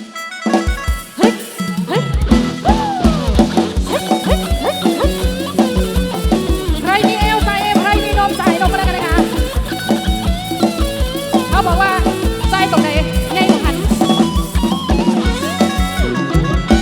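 Isan-style band music played loud through a truck-mounted sound system: after a few scattered hits, a fast, heavy bass-drum beat comes in about two seconds in, with a gliding melody over it.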